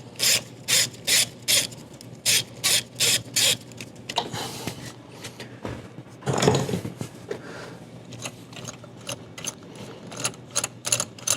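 Hand ratchet on a spark plug socket clicking in short runs, about two to three strokes a second, as a spark plug is wound out of the engine's cylinder head; the strokes pause in the middle, where one louder clunk comes about six and a half seconds in, then pick up again faster near the end.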